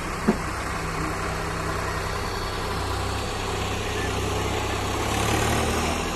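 Tractor diesel engine running steadily at low revs, with a single sharp knock just after the start and the engine a little louder near the end.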